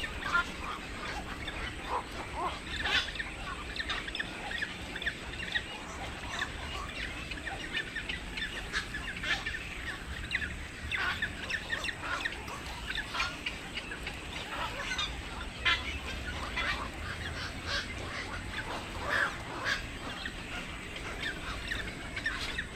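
Many birds giving short, harsh calls, overlapping in a constant busy chatter.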